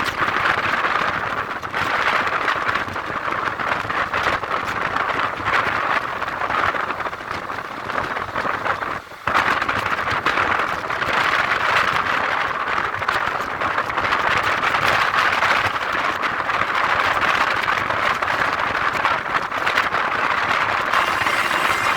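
Train running along the track: a steady rush of wheel and wind noise, dipping briefly about nine seconds in.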